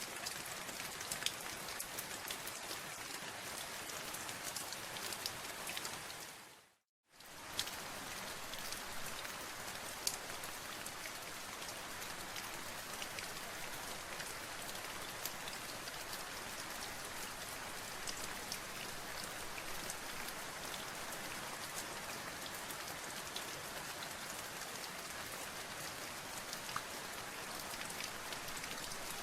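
Steady rain with many separate drops ticking on a surface. It fades out to a moment of silence about seven seconds in, then starts up again at the same level.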